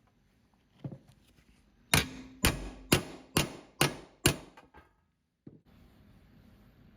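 Six hammer blows on metal, about two a second, each with a short bright ring, followed by a few light taps.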